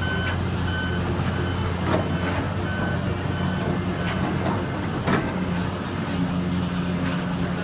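Reversing alarm of a heavy construction vehicle beeping repeatedly over a diesel engine running steadily, with a few sharp clanks.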